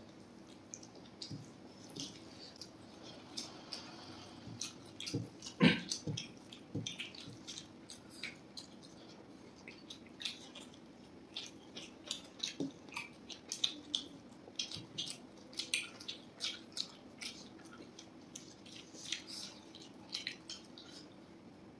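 Close-miked eating sounds: irregular wet chewing and mouth clicks, with squishing as fried rice and gravy are mixed by hand. There is a single louder knock about six seconds in, over a faint steady hum.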